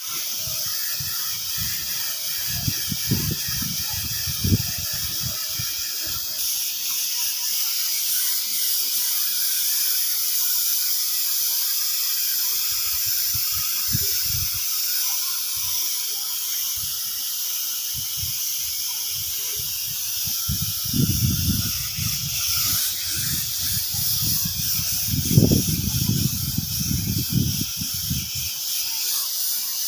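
Compressed-air paint spray gun spraying, a steady high hiss, with scattered low thumps.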